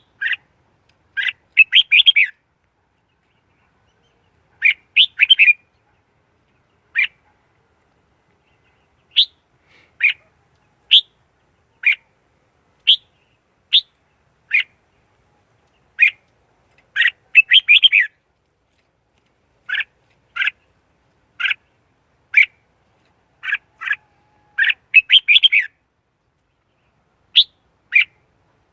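Red-whiskered bulbul decoy bird calling: short, clear chirps and quick bursts of several notes, repeated every second or so with silent gaps between them.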